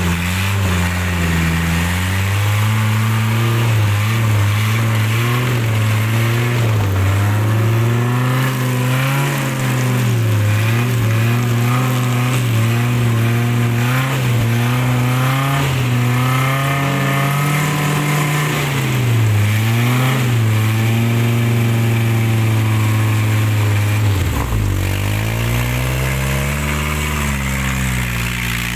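Off-road 4x4's engine revving under load, its pitch rising and falling repeatedly as the throttle is worked. Near the end the revs drop sharply and climb back.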